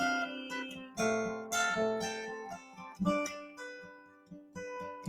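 Acoustic guitar playing on its own between sung lines of a slow folk song: a few plucked chords that each ring and die away, thinning almost to nothing about four seconds in before one more note.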